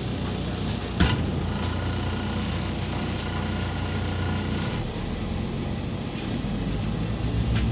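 MAZ 203.065 city bus running, with engine and road noise heard from inside the passenger cabin. A single sharp knock comes about a second in.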